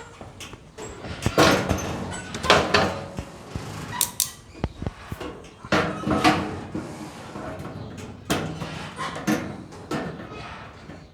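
A series of irregular knocks and clanks.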